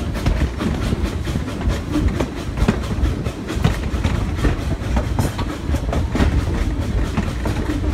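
Steam-hauled train running along the track, heard from a car just behind the locomotive: a steady low rumble of the wheels with irregular clicks and knocks as they pass over the rail.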